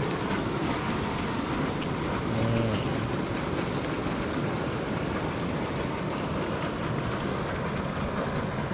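Steady rush of storm-swollen water pouring and swirling out of a reservoir outlet pipe. A short low voice-like sound comes in about two and a half seconds in.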